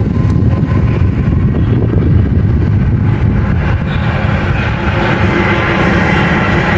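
Train approaching with a loud, steady low rumble; about five seconds in, steady tones of a train horn begin to sound above it.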